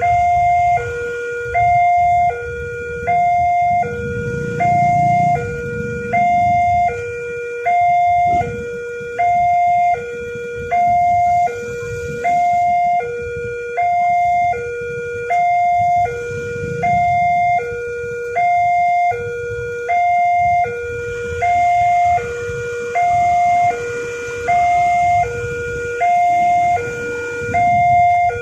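Level-crossing warning alarm sounding: an electronic two-tone signal, a higher and a lower tone taking turns in an even cycle about every one and a half seconds. It is the signal that a train is approaching and the barriers are down. A low rumble runs underneath.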